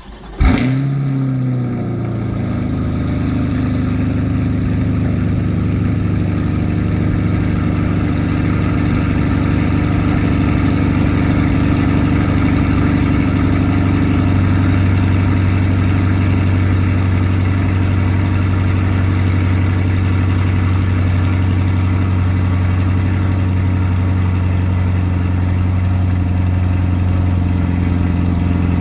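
A 2020 Chevrolet Corvette C8's 6.2-litre V8, with factory performance exhaust, cold-started by remote start. It catches with a sudden flare about half a second in, its pitch drops over the next two seconds, and it then settles into a steady cold idle.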